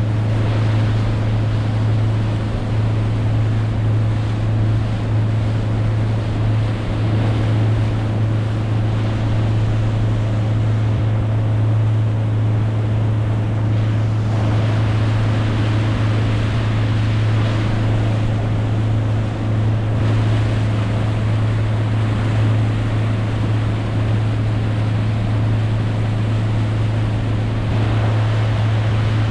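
Boat engine running at a steady low drone, with rushing wind and water noise over it.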